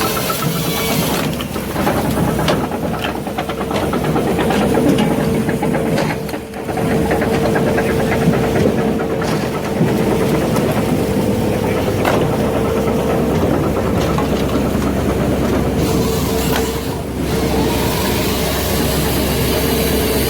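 Firewood processor at work: its 50 hp Kubota diesel engine runs steadily with a constant whine, under repeated knocking and clattering of the machine handling wood.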